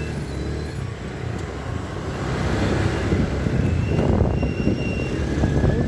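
Motorcycle on the move: a steady low engine and road rumble that grows louder about two seconds in.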